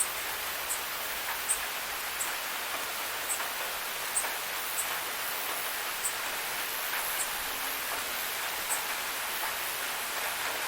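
Steady rush of falling water from a forest waterfall, an even hiss with short, high ticks scattered irregularly through it.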